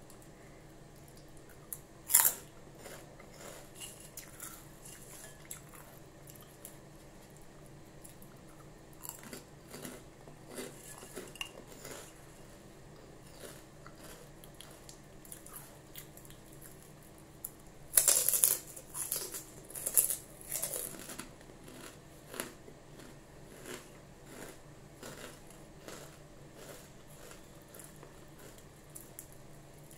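Close-up chewing and crunching of crispy chicharon (fried pork rinds), with scattered crackly bites. A loud crunch comes about two seconds in and a dense run of loud crunches comes a little past halfway.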